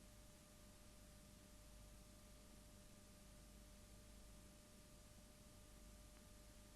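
Near silence: a faint steady hiss with a thin, unchanging hum.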